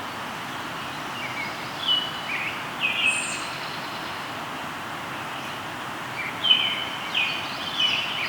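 Songbirds singing short, repeated chirping phrases over the steady rush of a flowing river.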